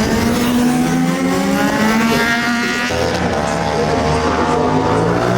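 Superbike racing motorcycle engine at high revs under acceleration: its pitch climbs, drops about three seconds in, then climbs again.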